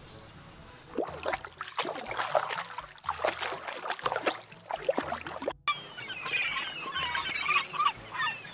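Water splashing and sloshing in irregular spurts. Then, after an abrupt cut a little past halfway, a flock of seabirds calls continuously with many overlapping short cries.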